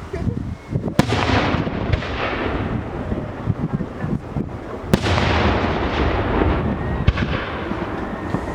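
Fireworks display: aerial shells bursting with sharp bangs, the loudest about a second in and again near the middle, each followed by a long crackling tail that fades over a few seconds, and another bang near the end.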